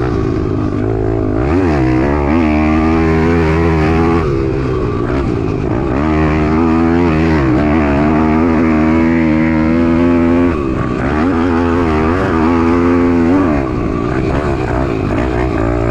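Piranha 190 pit bike's single-cylinder four-stroke engine being ridden hard, its pitch rising and falling over and over as the throttle is opened and closed.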